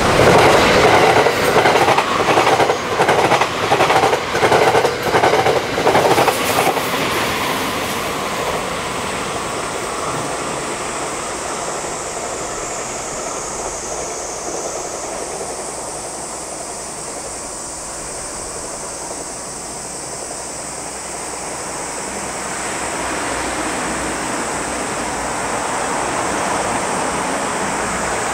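A 681/683-series limited express electric train passes close at speed, its wheels beating a rhythmic clickety-clack car after car for about six seconds before the sound fades. A steady rumble then grows louder near the end as another train approaches.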